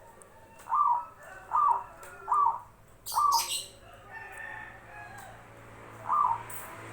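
Zebra dove (perkutut) cooing: four short ringing coos in a row, about one every 0.8 s, then one more after a pause near the end. A brief high hissy sound comes over the fourth coo.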